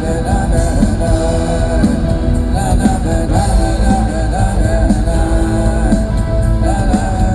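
Live rock band performing a song: singing over electric guitar, bass and drums with a steady beat.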